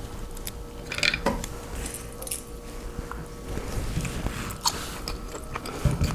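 Close-miked eating of a seafood boil: wet chewing and biting, with scattered short sharp clicks and crackles.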